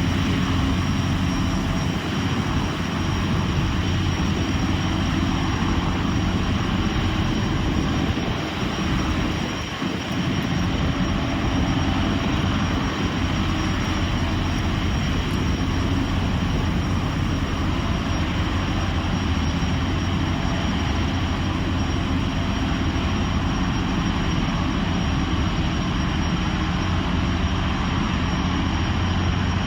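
Boeing 929 Jetfoil's gas turbine engines running steadily: a loud, even whine and rush with a steady low hum, dipping briefly about ten seconds in.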